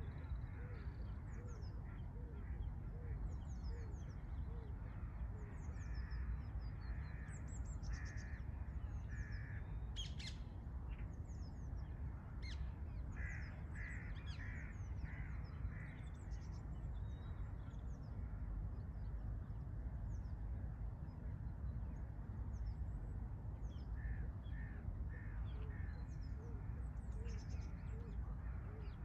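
Several wild birds calling in a forest. One repeats a low note about twice a second near the start and again near the end, another gives a run of about five calls midway, and high chirps are scattered throughout, all over a steady low rumble.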